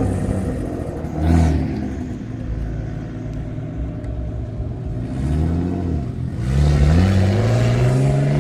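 Old drift car's engine revving: a short rev that rises and falls a little past halfway, then a long steady climb in pitch as it accelerates near the end. Its sound draws "that thing sounds good."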